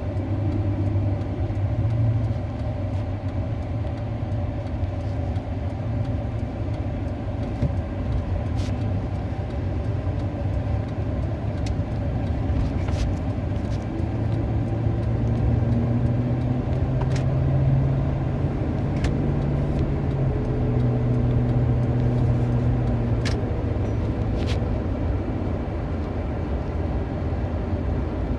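Steady low rumble of a running motor vehicle engine, its hum slowly shifting in pitch partway through, with a few sharp faint clicks scattered over it.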